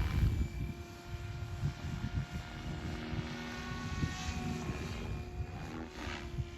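Electric SAB Goblin 500 RC helicopter in flight: a steady whine from the motor and rotors over a low, uneven rumble. The pitch shifts slightly a few seconds in and again near the end.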